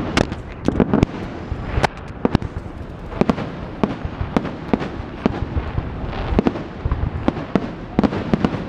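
Fireworks display going off: a rapid, irregular series of sharp bangs and cracks, several a second, over a continuous low rumble of further bursts.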